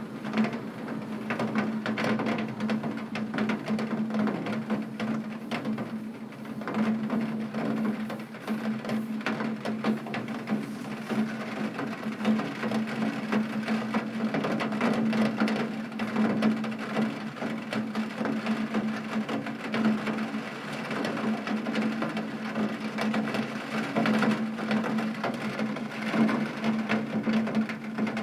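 Heavy rain hitting window glass, a dense steady patter of many small drop impacts, over a constant low hum.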